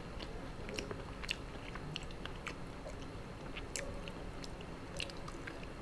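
A person chewing a mouthful of shrimp from a spicy seafood papaya salad: faint, irregular wet mouth clicks and smacks, a few each second.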